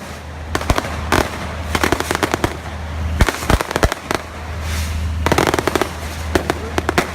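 Fireworks going off: rapid strings of crackling bangs in bursts of several a second, with a few heavier booms among them.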